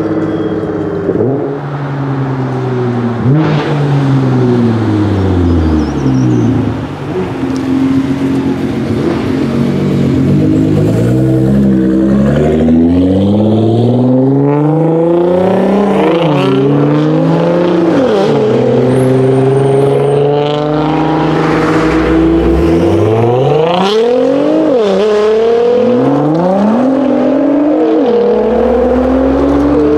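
Nissan GT-R R35 twin-turbo V6 engines accelerating hard, several runs one after another. The revs climb and drop back at each gear change, over and over.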